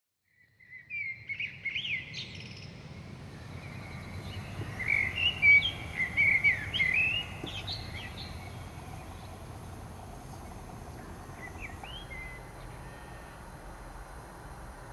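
Songbirds singing in quick chirping, gliding phrases, loudest a few seconds in, with a shorter phrase near the end, over a steady low rumble.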